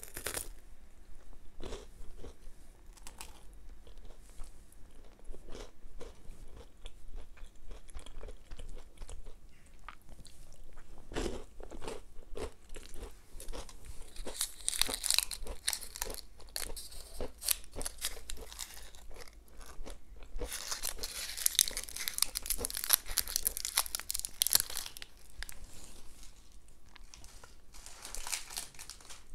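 Close-miked chewing and crunching of a Ferrero chocolate. Around the middle come two longer stretches of crinkling as the wrapper is peeled off a Ferrero Rondnoir praline.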